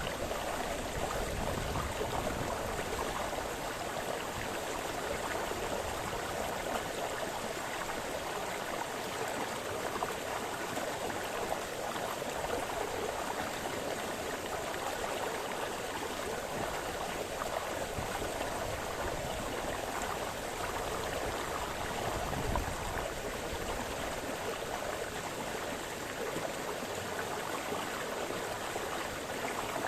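A small brook splashing and gurgling over stones, a steady, even rush of running water with small irregular splashes.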